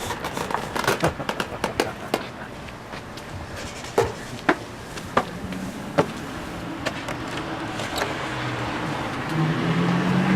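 A scatter of sharp clicks and knocks over a steady background rush, with a low hum growing louder near the end.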